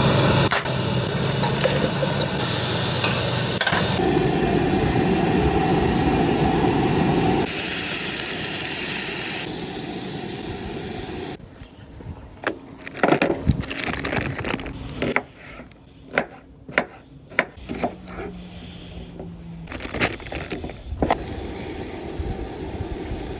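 A loud steady rumble for about the first eleven seconds. Then a run of sharp clicks, knocks and clatters as camp cooking gear (pans, utensils, containers) is handled for breakfast.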